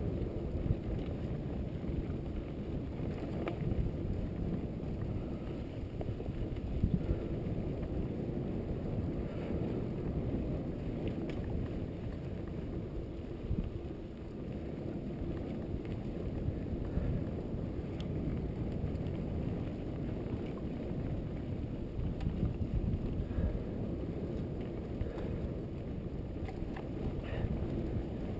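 Steady wind rush on an action camera's microphone and tyre noise from a Trek Fuel EX8 mountain bike being ridden, with occasional knocks and rattles from the bike over the trail.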